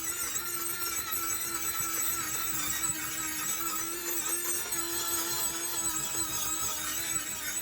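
Small power tool motor running steadily, its whine wavering slightly in pitch as it works.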